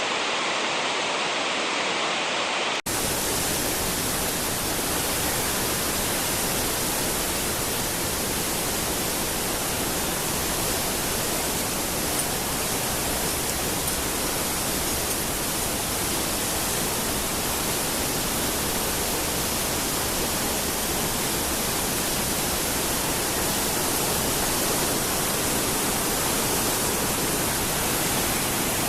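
Steady rushing of mountain water. About three seconds in, the sound cuts abruptly to a brighter, hissier rush.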